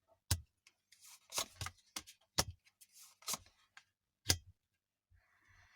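Tarot cards being handled and laid out on a table: about half a dozen sharp card slaps and taps, with soft rustling between them.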